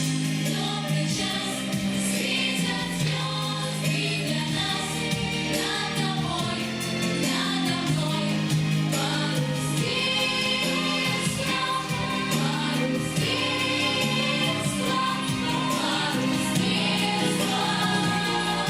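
A group of voices singing a children's song in chorus over an instrumental backing track.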